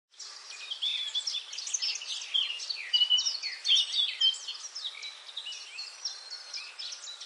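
A dense chorus of birds chirping and calling at once, with many short rising and falling whistles, over a steady hiss.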